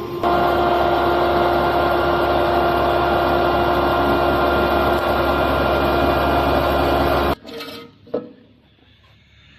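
Electric rice flour grinder running with a steady high motor whine, cutting off abruptly about seven seconds in, followed by a single click.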